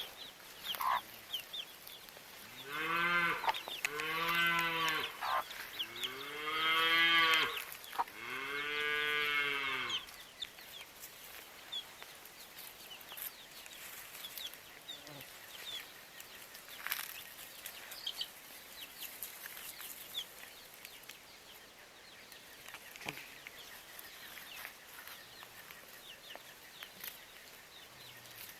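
Cattle mooing: four calls in a row, each rising and then falling in pitch, the third and fourth longer and loudest. Faint bird chirps follow.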